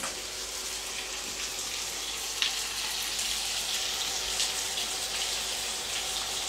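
Marinated chicken wings sizzling in hot oil in a frying pan, a steady hiss, with one light click about two and a half seconds in.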